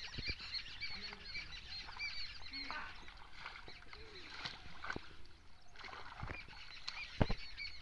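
Small birds chirping rapidly and continuously, thinning out about three seconds in. A few short dull knocks are heard, the loudest near the end.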